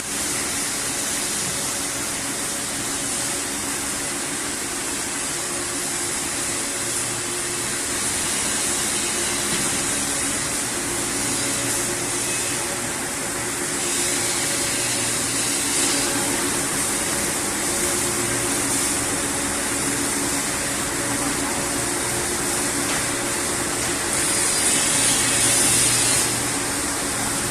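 Steady industrial machinery noise: a continuous hiss with a low, even hum underneath, getting somewhat louder toward the end.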